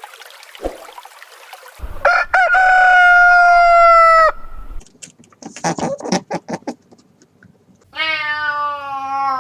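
A rooster crowing: one long, loud crow held on a steady pitch about two seconds in, followed by a run of short broken clucking calls, then another drawn-out call near the end.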